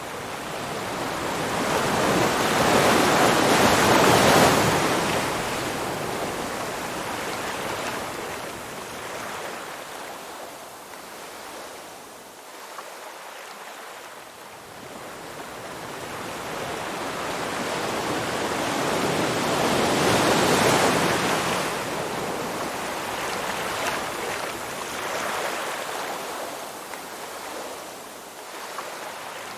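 Ocean surf: two waves build and wash in slowly, one peaking about four seconds in and another about twenty seconds in, with softer wash between them.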